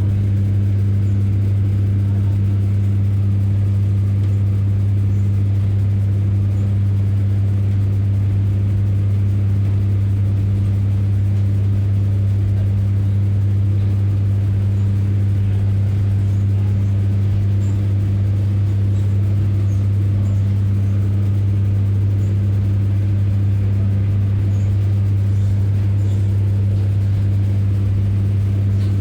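Diesel engine of a Class 144 Pacer railcar running steadily, a constant low drone that holds one pitch.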